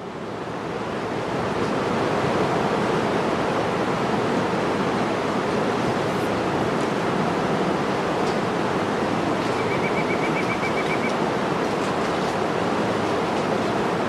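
Steady rushing of water, fading in over the first two seconds and then holding an even level.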